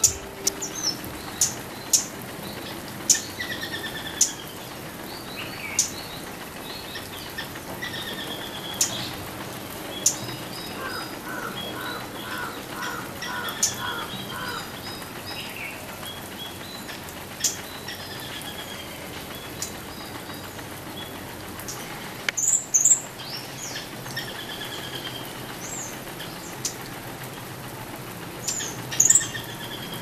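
Small birds chirping: many short, sharp high-pitched calls and brief falling notes scattered throughout, with a quick run of about eight lower notes near the middle and louder clusters of calls about two-thirds of the way in and near the end.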